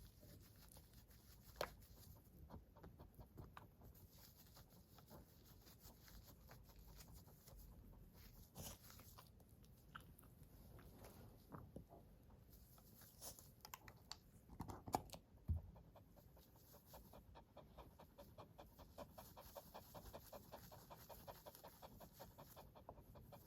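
A Coton de Tulear dog panting faintly after a walk, with a few soft clicks and knocks, the loudest about fifteen seconds in.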